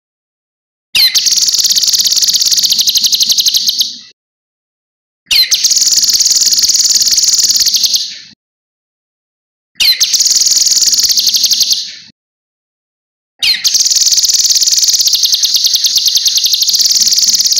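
Cucak kinoi songbird singing loudly in four bouts of about three seconds each: fast runs of high, rapidly repeated notes, separated by complete silence.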